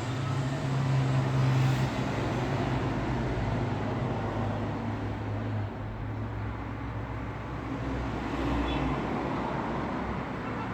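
Road traffic: a continuous rush of vehicle engines and tyres, with a low engine hum that is loudest in the first couple of seconds and then eases.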